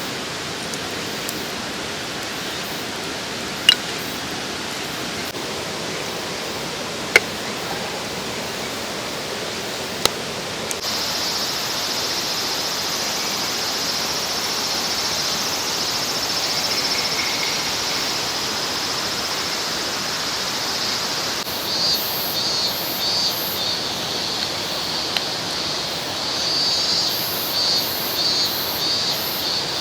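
Mountain stream rushing steadily, with a few sharp clicks in the first ten seconds. From about eleven seconds a high buzzing joins in, and it pulses rapidly in the last third.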